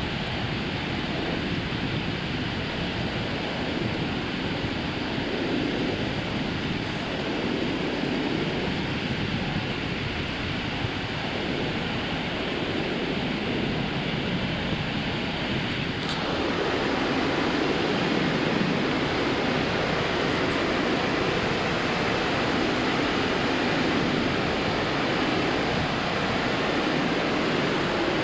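Ocean surf washing onto a sandy beach, a steady rushing noise with slow swells; it gets slightly louder and fuller a little over halfway through.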